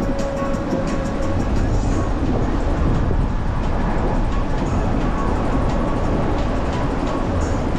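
Wind rushing over the microphone of a moving beach cruiser bicycle, a steady heavy rumble with light ticking in the first couple of seconds.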